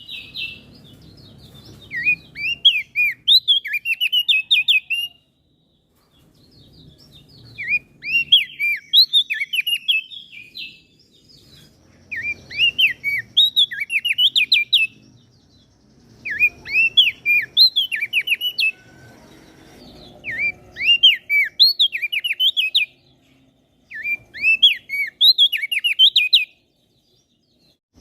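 A songbird singing in repeated bouts of quick, high, sweeping chirps, each bout about three seconds long with short pauses between; six bouts in all.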